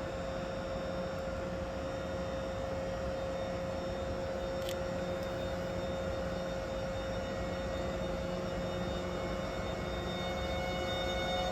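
Railway locomotive running with a steady hum and a held whining tone, growing a little louder near the end.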